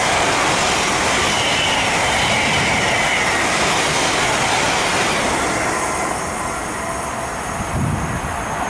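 Thameslink Class 700 electric multiple unit running through the station: a loud rush of wheels on rail with a faint high whine, easing off after about five seconds.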